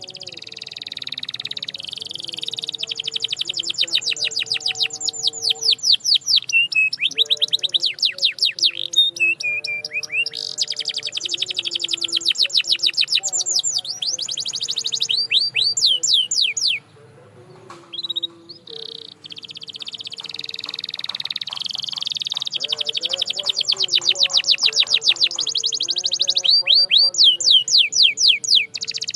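Canary singing long, fast trills of rapidly repeated sweeping notes, phrase after phrase, with a short break a little past the middle.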